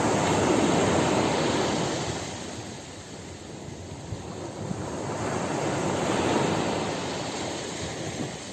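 Ocean surf washing in and out in two swells. The first is loudest in the first second or two and fades by about three seconds in. The second builds to a peak about six seconds in and then ebbs.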